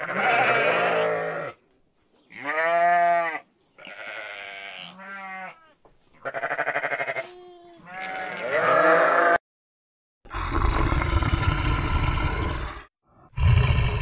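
A lamb bleating about five times, some calls wavering. From about ten seconds in, a lion gives a long low growl, then a shorter one near the end.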